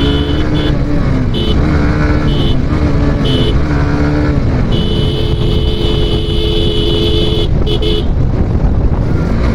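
Suzuki GSX-R motorcycle engine running under way, its pitch rising and falling with the throttle, while a vehicle horn sounds in several short toots, then one long blast of nearly three seconds about five seconds in, and one more short toot.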